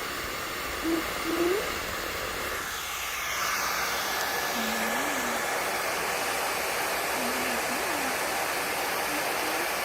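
Hair dryer blowing steadily. Its airflow changes and gets a little louder about three seconds in, and a few faint short tones sound over it.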